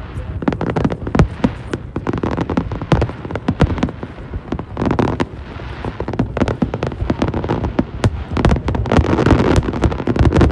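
Aerial fireworks bursting in a dense barrage: many sharp bangs and crackles a second, building thicker about halfway through and again near the end.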